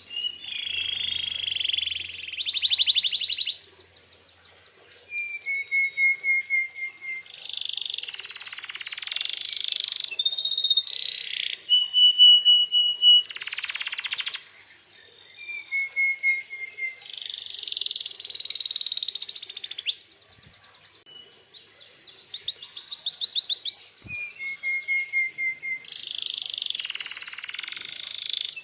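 Domestic canary singing in phrases of fast trills, rattles and short runs of falling notes, pausing briefly about four seconds in and again about twenty seconds in.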